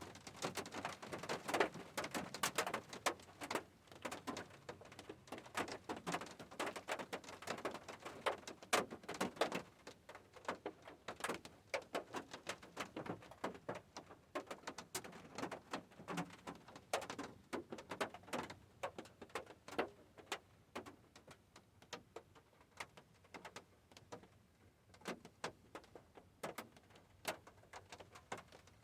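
Raindrops striking a hard surface as irregular sharp ticks and drips, dense at first and thinning out over the second half.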